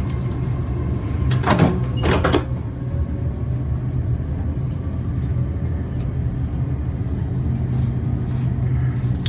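Steady low rumble inside a Great Western Railway Class 802 train as it pulls away, with two short sharp sounds about one and a half and two seconds in.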